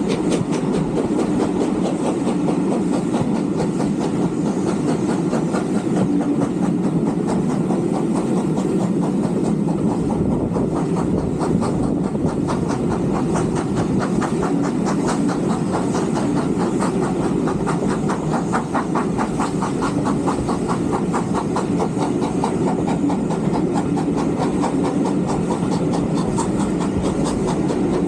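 Steam train running along the line: a steady rumble of wheels on track with a fast, even rhythmic beat.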